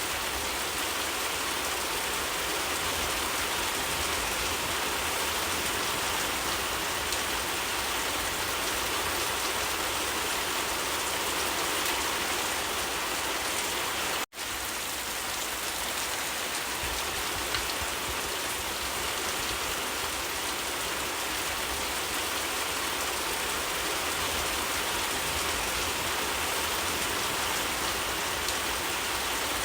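Steady rain falling and pattering on surfaces, an even hiss with no letup. About halfway through, the sound cuts out for a split second and comes straight back.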